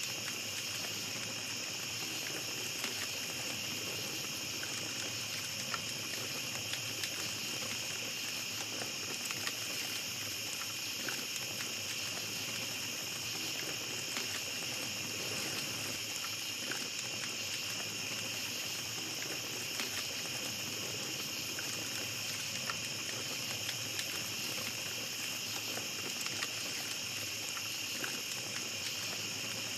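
Small campfire crackling with scattered faint pops, over a steady high chorus of night insects such as crickets.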